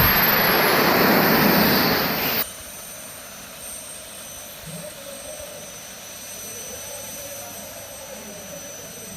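Loud, even jet roar from a jet-powered flying machine, cutting off abruptly about two and a half seconds in; after the cut only a much quieter steady background with faint high tones remains.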